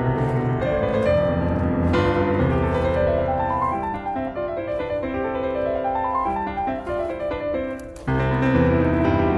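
Background piano music, with two rising runs of notes in the middle and a brief dip just before fuller chords return near the end.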